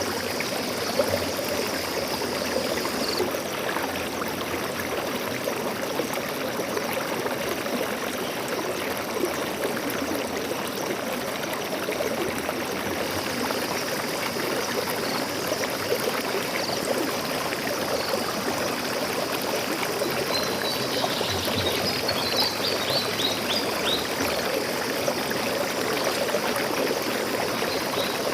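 Stream water flowing steadily over rocks. A few faint, high bird chirps come in about two-thirds of the way through.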